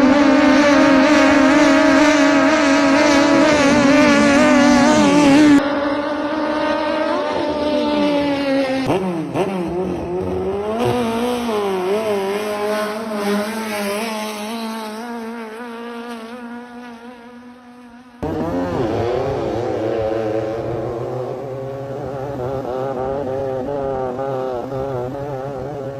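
High-speed vehicle engines running hard in three spliced clips, cut abruptly about five and a half seconds and eighteen seconds in. The engine pitch wavers and shifts throughout, and the middle clip fades down before the cut.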